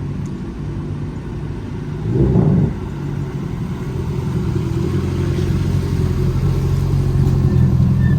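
Subaru Impreza rally car's flat-four engine pulling hard at speed, heard from inside the cabin, gradually growing louder. There is a brief loud thump about two seconds in.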